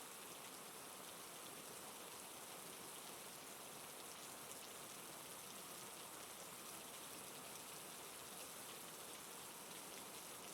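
Steady rain falling, a soft even patter.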